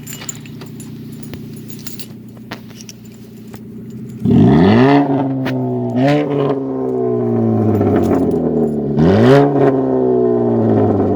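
Car engine idling through a loud exhaust, then revved three times: a sharp blip about four seconds in, a smaller one about two seconds later, and another near the end, each falling back toward idle.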